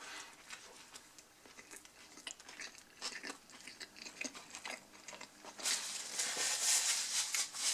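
A man chewing a mouthful of hamburger, with soft wet mouth clicks. About five and a half seconds in there is a louder rustle of paper and cardboard lasting about two seconds, as the half-eaten burger is set back down in its cardboard box.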